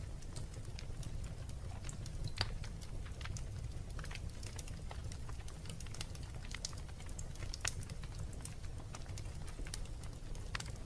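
Wood fire burning in a fireplace: a steady low rumble of flames with irregular sharp crackles and pops, one louder pop about two and a half seconds in.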